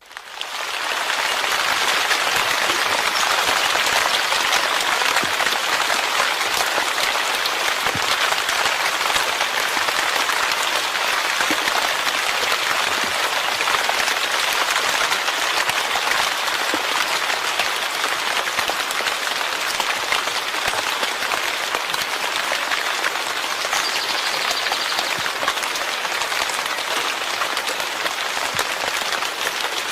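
Steady rain falling, a dense, even hiss that fades in over the first second or so and then holds without a break.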